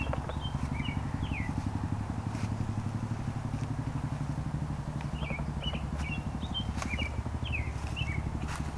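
An engine running steadily with a rapid low throb, with small birds chirping in short high notes at the start and again in a cluster about five seconds in.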